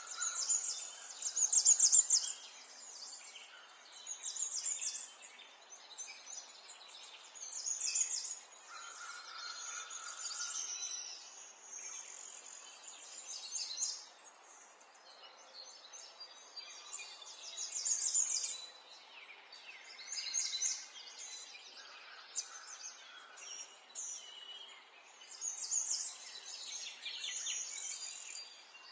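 Songbirds singing, short high-pitched chirping phrases from more than one bird repeating and overlapping every second or two, over a faint outdoor hiss.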